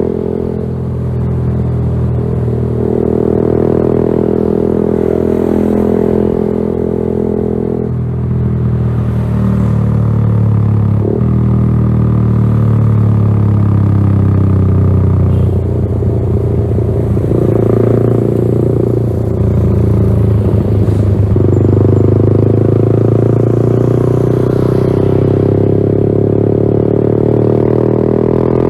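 Yamaha XSR 155's single-cylinder engine running through an aftermarket LeoVince GP Corsa Evo exhaust, the exhaust note holding steady and stepping to a new pitch several times.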